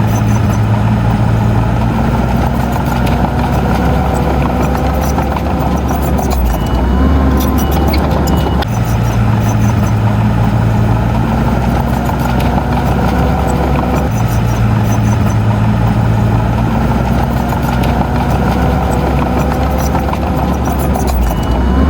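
Heavy diesel engine of earthmoving machinery running steadily with a deep hum. The same pattern of engine tones repeats about every seven seconds.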